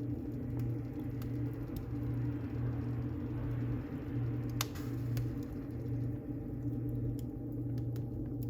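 Wood fire burning in a fireplace: a steady low rumble with scattered crackles, and one sharper pop about halfway through.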